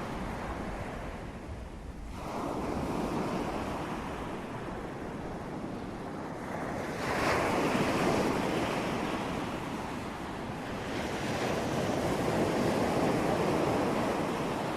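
Ocean surf: waves breaking and washing in, rising and falling in slow swells, with the biggest wave breaking about halfway through.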